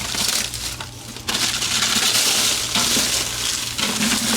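Dead bell pepper plant and its dry roots and soil being handled and pulled out, crunching and rustling in several long bursts.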